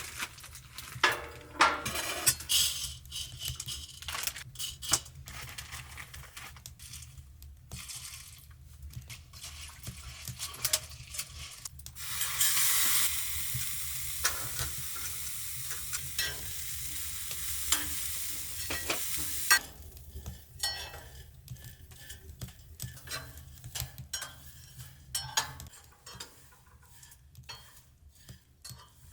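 Food cooking in a pan, with utensils scraping and clinking as it is stirred. A sizzle rises about twelve seconds in, holds for around seven seconds, then drops away. A low steady hum runs underneath.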